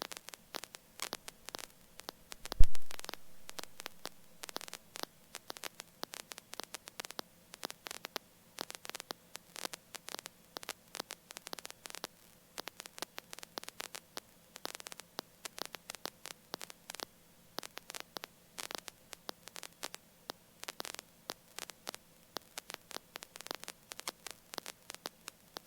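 Crackling static and a faint steady hum on a helicopter's intercom audio feed, with one loud low thump about two and a half seconds in.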